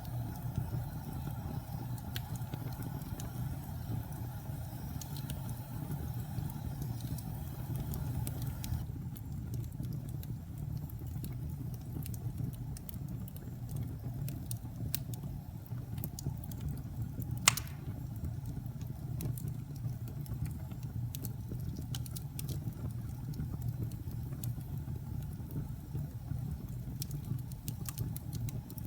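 Fire burning in a fireplace: a steady low rumble with scattered crackles throughout and one sharp, much louder pop about two-thirds of the way through.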